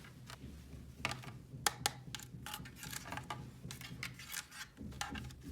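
Irregular light clicks and taps of small plastic toy pieces being handled, over a low steady hum.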